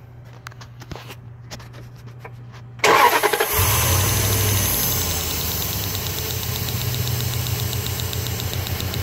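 A 4.7-litre V8 cranks briefly and starts about three seconds in, running a little higher at first and then settling into a steady idle. A fast, regular ticking comes from the in-line coil-on-plug spark tester fitted to one coil as it sparks. Before the start, a few small clicks of handling.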